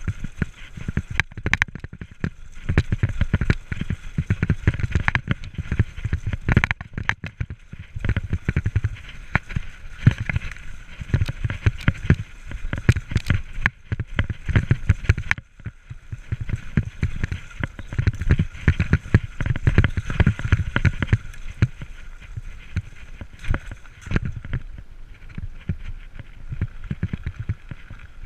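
Mountain bike riding over rough trail: wind buffeting the microphone in uneven gusts, with frequent clattering and rattling knocks.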